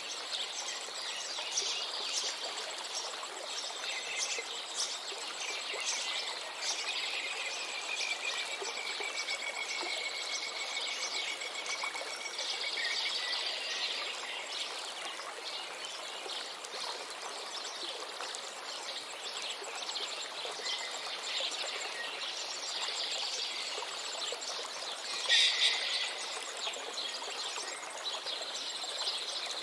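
River water running steadily, with many small birds chirping and singing over it. One bird gives a long trill from about 7 to 12 seconds in, and a louder call comes near the end.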